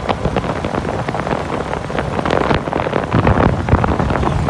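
Wind buffeting the microphone of a moving bike rider, with many small knocks and rattles. The low rumble grows louder about three seconds in.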